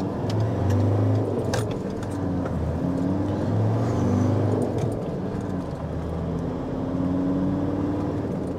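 Ford Ranger's engine heard from inside the cabin, accelerating with a throttle controller fitted; the engine note swells and eases several times, then climbs steadily in pitch near the end.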